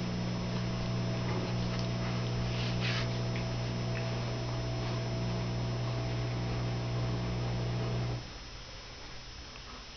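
A steady, even hum that cuts off suddenly about eight seconds in, with a brief rustle near three seconds.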